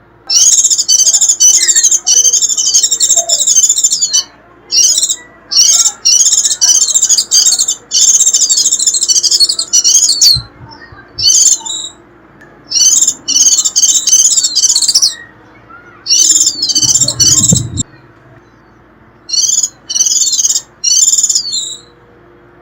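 White-eye singing in the fast, high-pitched, squeaky chattering style called "rít". It sings in bursts of one to four seconds separated by short pauses. A low thump comes about three-quarters of the way through.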